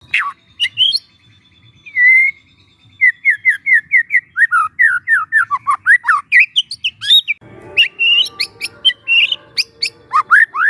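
White-rumped shama, a young wild bird, singing: a fast run of short whistled notes, each sliding downward, about five a second, then sharp high ticks and chirps over a harsher, buzzy chatter in the last three seconds.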